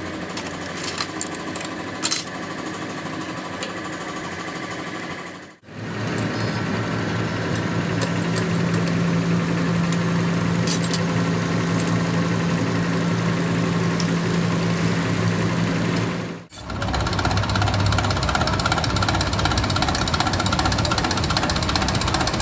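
Machinery running steadily in a workshop, heard in three separate shots with abrupt cuts between them. The first shot also has scattered sharp clicks and taps, and the middle shot holds a steady humming drone.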